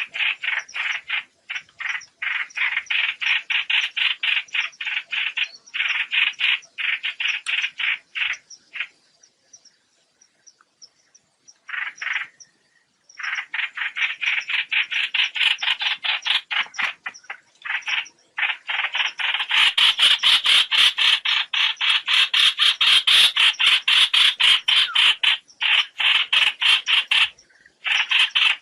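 Rapid, repeated sharp bird calls, several a second, in long runs with brief pauses and one silent gap of about two seconds midway: the flock call of the bird known in Vietnamese as trao trảo, played as a lure for net trapping.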